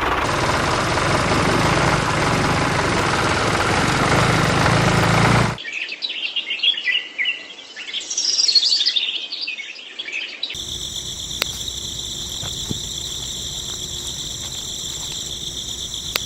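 A steady, dense running noise cuts off suddenly about five seconds in. Birds then chirp for about five seconds, and a steady high-pitched whine with a low hum follows.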